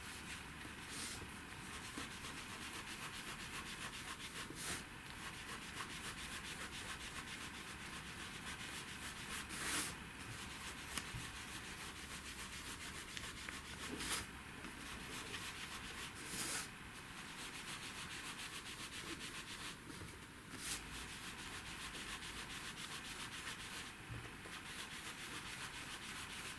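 Ink applicator rubbing ink around the edges of a paper card in steady scratchy strokes, with a brief louder scuff every few seconds.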